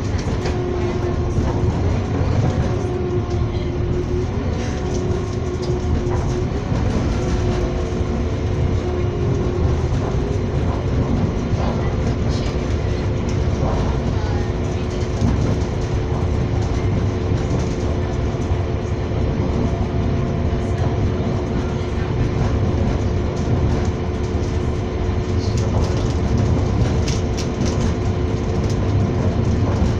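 Passenger train running at speed, heard from on board: a steady rumble with a steady hum over it and scattered clicks from the wheels on the rails.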